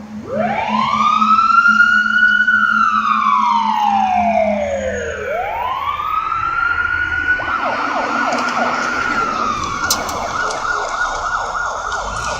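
Fire engine siren on a 1994 Simon Duplex pumper, wailing up, sliding slowly down and rising again, then switching to a fast yelp about seven seconds in.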